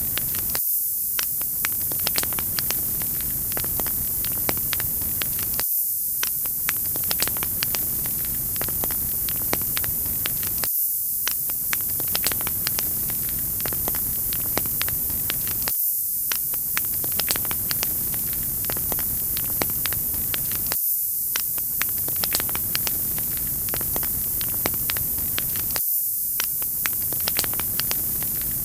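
Wood fire crackling in a fireplace: a steady hiss with frequent sharp pops and snaps. It is a short recording looped about every five seconds, with a brief dip in the lower sound at each seam.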